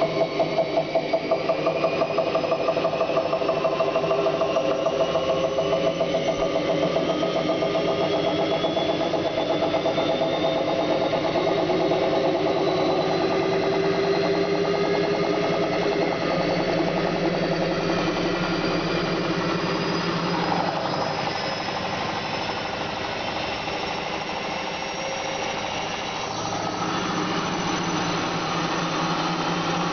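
Bosch WFK 2400 front-loading washing machine spinning: a steady motor whine with a rhythmic throb for the first ten seconds or so, easing a little about twenty seconds in and picking up again near the end. The 17-year-old machine runs somewhat louder with age.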